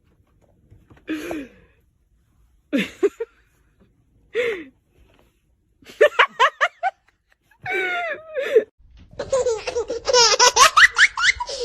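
Laughter that starts as short, separate bursts a second or so apart, quickens partway through, and turns into continuous laughing over the last few seconds.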